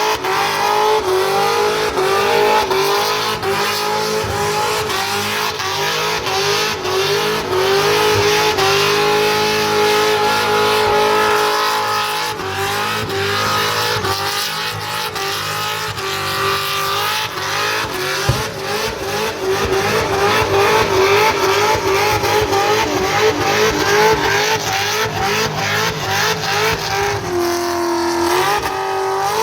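Farm truck doing a burnout: its engine is held at high revs, the pitch wavering up and down, while the spinning tyres squeal. Near the end the revs drop briefly, then climb again.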